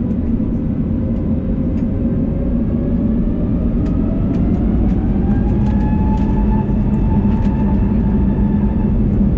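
Airbus A321neo's Pratt & Whitney geared turbofan engines heard from inside the cabin: a heavy, steady rumble with an engine whine that rises over a few seconds and then holds at a higher pitch as thrust increases. Light cabin rattles click now and then.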